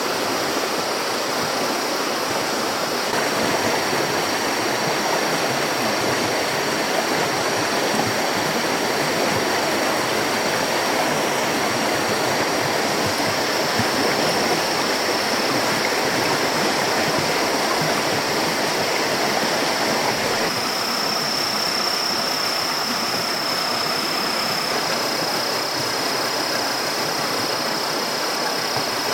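Steady rushing water noise with a constant high-pitched whine above it. The sound shifts slightly about 3 and 20 seconds in.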